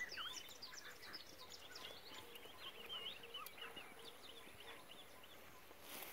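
Faint background chorus of small birds, many short chirps and whistles overlapping.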